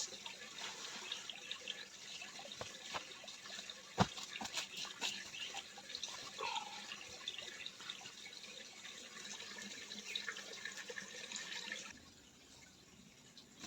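Water splashing and trickling close by, with scattered small ticks and one sharp knock about four seconds in; it stops abruptly near the end.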